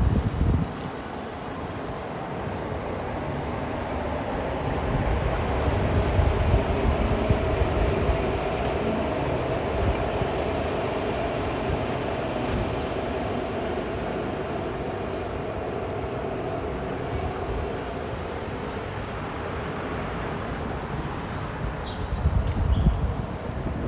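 Steady wash of city street noise with road traffic, with low rumbles in the first second and again near the end.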